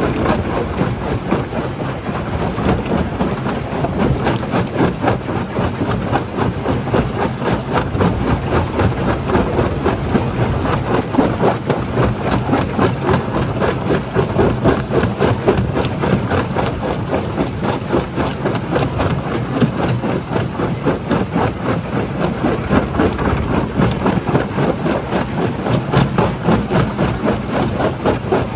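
Primary jaw crusher running and crushing rock: a steady heavy machine drone under a constant, irregular clatter and cracking of stone.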